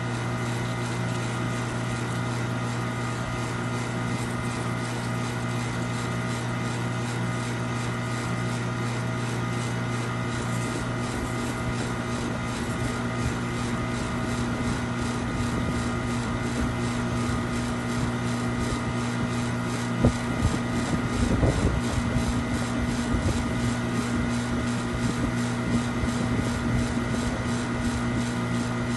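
A machine running with a steady low hum and drone. Near the end comes a sharp knock, then a brief low rumble.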